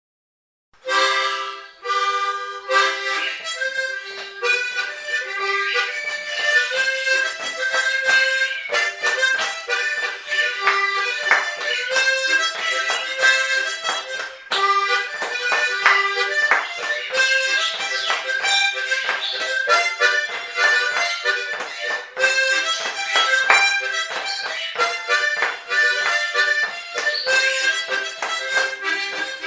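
Harmonica playing a lively tune, with rhythmic chords pulsing under the melody, starting about a second in.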